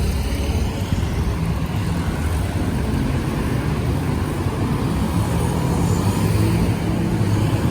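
Road traffic with a motor vehicle engine running close by, a steady low hum under a rumbling noise that grows louder over the last few seconds.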